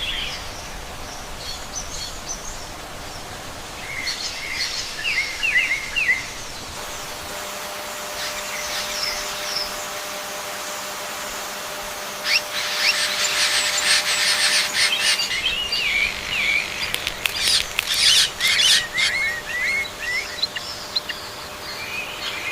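Small songbirds chirping and twittering in several bursts of quick high notes, over a steady background hiss.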